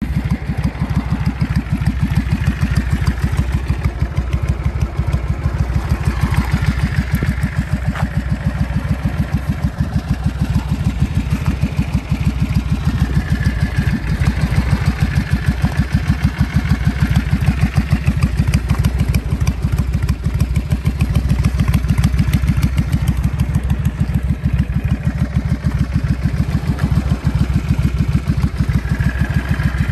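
Yamaha DragStar 400's air-cooled V-twin idling steadily through slash-cut mufflers, a loud, even run of exhaust pulses.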